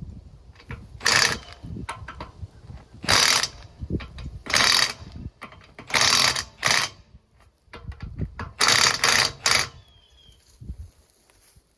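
Socket ratchet wrench turning the wheel lug nuts as a tire is mounted back on a hay rake hub: about eight short bursts of ratcheting, some spaced a second or two apart, others closer together.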